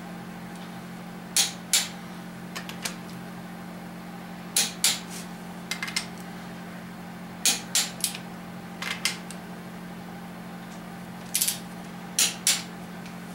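Torque wrench clicking on the connecting rod bolts as each is brought up to 45: sharp clicks, mostly in pairs, every few seconds. A steady low hum runs underneath.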